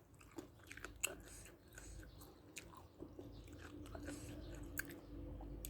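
Close-up chewing of crunchy food, with scattered sharp crunches and wet mouth clicks.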